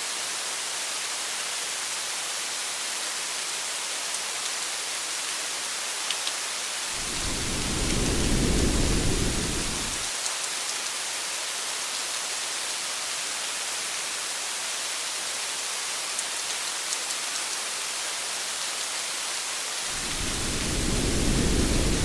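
Steady rain pattering on a car's windshield and roof, with a few separate drops ticking. Thunder rumbles twice, each time swelling and fading over about three seconds: once about a third of the way in and again near the end.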